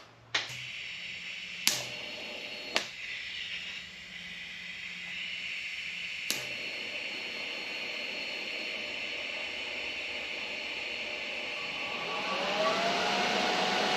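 TIG welder tacking stainless steel exhaust pieces: the arc makes a steady hiss, with a few sharp clicks. Near the end something starts up with a rising whine that then holds steady, and the overall sound gets louder.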